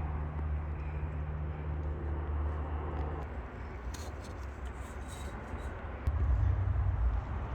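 2017 Audi Q5's 2.0-litre turbocharged four-cylinder engine running, a steady low hum. The hum changes about three seconds in, and a louder low rumble comes in about six seconds in.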